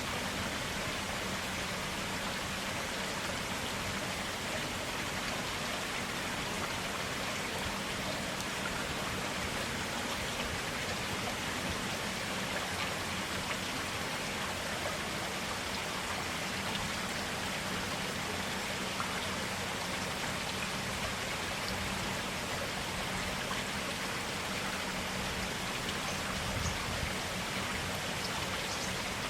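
A clear stream flowing, giving a steady, even rush of running water.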